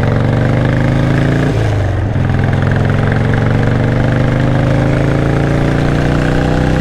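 Motorcycle engine accelerating from a pull-out: its pitch climbs, drops with an upshift about a second and a half in, then climbs steadily again under throttle.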